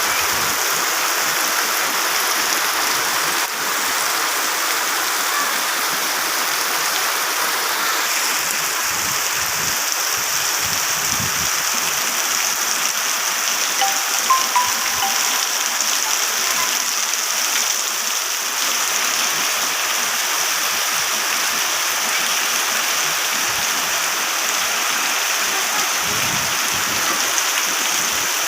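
Heavy rain falling steadily, an even hiss of rain on surfaces. A couple of brief short tones stand out about halfway through.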